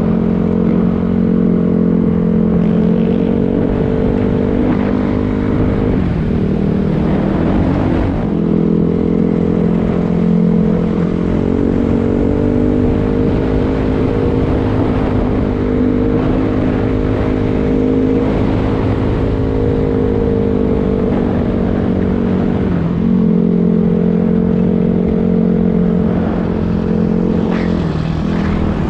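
Dirt bike engine running while riding, its pitch dipping and rising several times as the throttle and gears change.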